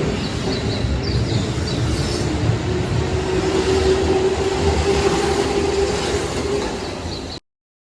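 Electric train running on rails: a steady rumble with a held motor tone, and a few short high wheel squeals in the first couple of seconds. The sound cuts off abruptly near the end.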